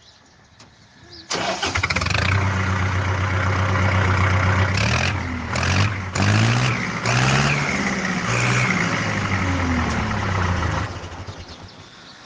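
Diesel tractor engine starting up about a second in and running, with its throttle opened and closed several times in the middle so the pitch rises and falls. The sound fades away near the end.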